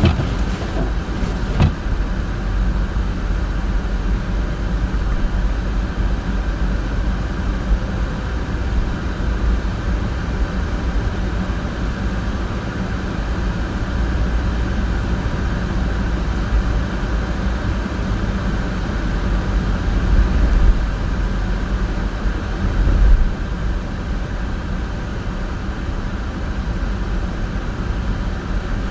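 Car driving on a snowy road, with a steady low rumble of engine and tyres. A few light clicks come in the first couple of seconds, and two louder bumps come about two-thirds of the way through.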